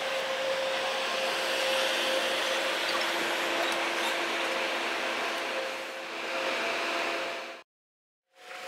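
A train running, sped up to double speed, heard as a steady rushing noise with a faint hum of tones. It cuts off abruptly near the end with a brief dead silence at an edit.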